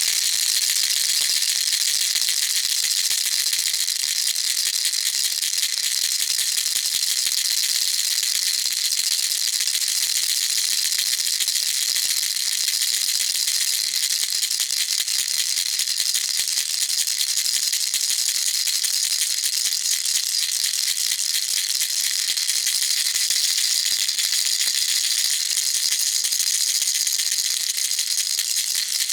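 Baby rattle shaken continuously: a fast, even rattling with no pauses.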